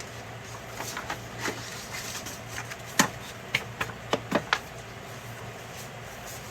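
Hands working on an HP printer's parts: scattered clicks and knocks, the sharpest about three seconds in and a quick run of them a second later, over a steady low hum.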